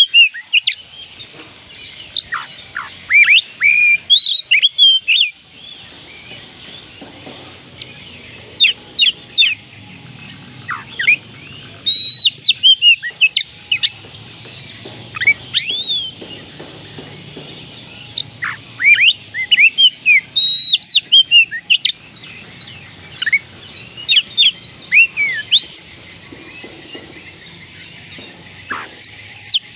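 Oriental magpie robin singing: rapid, varied whistled phrases of sharply sweeping notes, delivered in bursts with short pauses between them.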